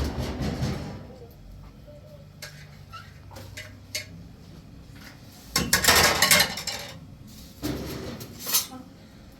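Clattering and clinking of hard household objects being handled: three loud bursts of clatter with scattered sharp clicks between them.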